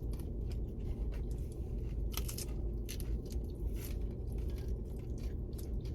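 Close-up chewing and biting on tacos, with short crunchy, crackly mouth sounds over a steady low hum, the loudest crunches about two seconds in and again near four seconds.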